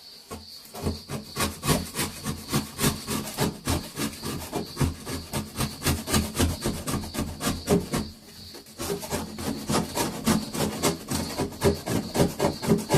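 Bladed scraper scraping failed wet-area sealing glue off a wall-sheet join in quick repeated strokes, about two or three a second, with a short pause about eight seconds in.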